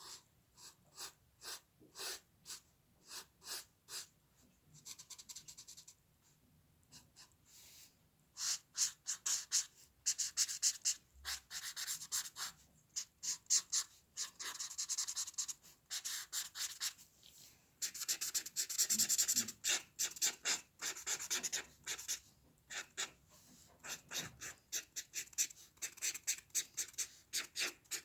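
A drawing tool scratching on paper in hand-drawn strokes: short separate strokes at first, then long, dense back-and-forth scratching in two stretches, as for shading, then quick short strokes again.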